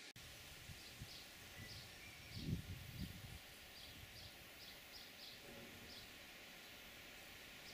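Faint outdoor ambience with a bird repeating a short high chirp about twice a second, and a few low dull thumps about two and a half seconds in.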